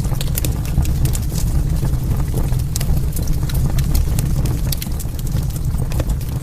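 Wood fire burning, with frequent sharp crackles and pops at irregular intervals over a steady low rumble.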